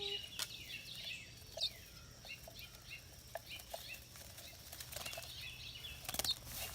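Small birds flapping their wings, with scattered short high chirps, and a cluster of sharp fluttering rustles near the end.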